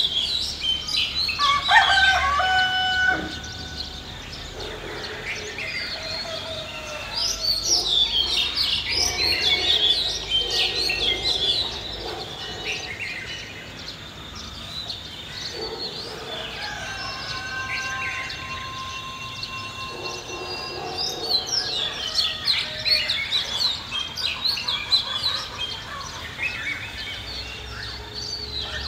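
Village ambience: small birds chirping in bursts throughout, with a rooster crowing, once about two seconds in and again past the middle.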